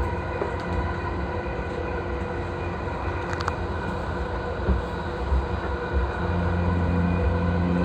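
Interior running sound of an E233-3000 series electric train: a steady rumble of wheels on rail with a few steady tones over it and occasional light clicks. The low rumble grows louder about six seconds in.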